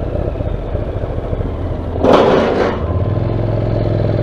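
Motorcycle engine running while riding, heard through a helmet-mounted camera, with a short rush of noise about two seconds in and a steadier, more even engine note from about three seconds.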